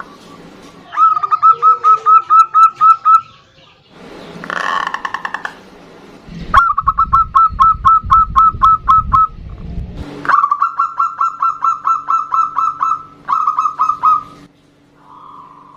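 Zebra doves (perkutut) calling back and forth: several long runs of rapid, clipped cooing notes at about five a second, with a softer, smoother coo between the runs.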